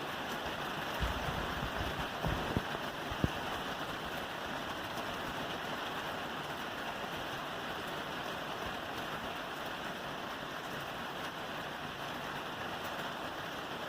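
Steady rain falling on a roof, an even hiss of drops, with a few low thumps between about one and three seconds in.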